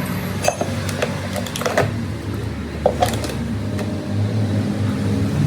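A steady low mechanical hum, like a motor or engine running, with a few scattered short knocks and clicks.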